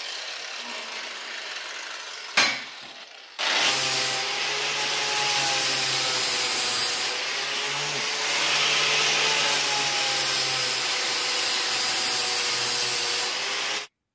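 A power tool grinding or sanding, an abrasive rasping over a steady motor hum. It starts about three and a half seconds in, after a single sharp knock, and cuts off suddenly near the end.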